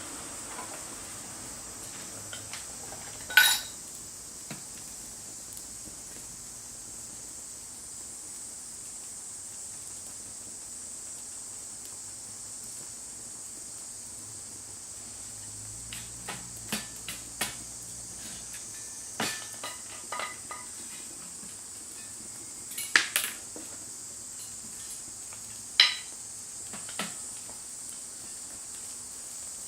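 Metal cooking gear being handled: scattered sharp clinks and knocks, a few at a time, over a steady high hiss.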